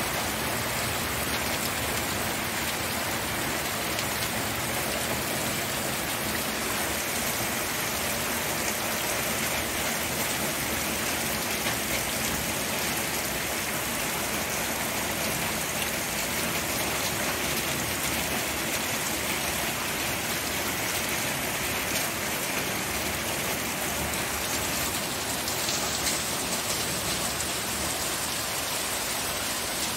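Steady rain falling on a surface: a continuous even hiss flecked with the patter of many small drops.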